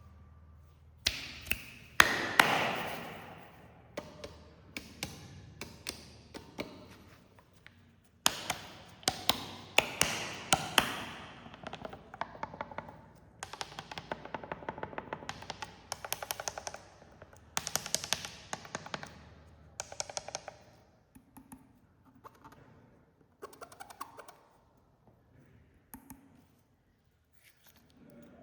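Carbonated cola being handled and poured into cups: sharp taps and clinks of bottle and cups, with splashing and dense crackling fizz in clusters. The sound thins to a few scattered taps near the end.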